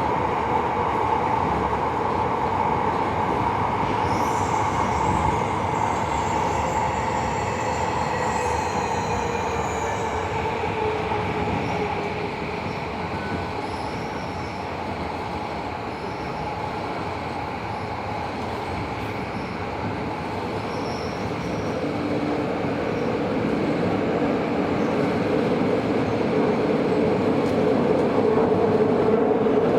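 Tobu 70000 series subway train running, heard from inside the car: steady rolling noise with a whine from the VVVF traction motors that slowly slides in pitch. A high wheel squeal comes in a few seconds in and fades after about ten seconds, and the running noise grows louder near the end.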